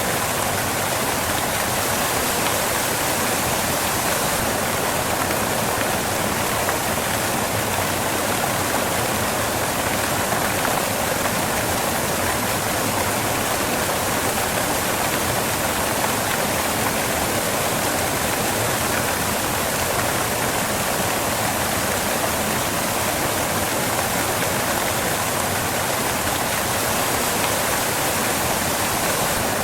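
Waterfall: water crashing off rocks in a steady, unbroken rush.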